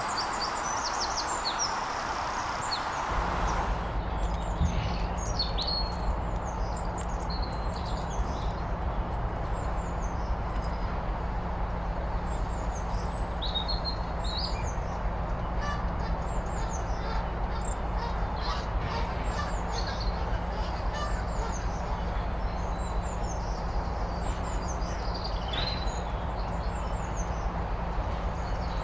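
Small songbirds chirping and singing in many short, quick phrases over a steady low rumble that comes in about three seconds in.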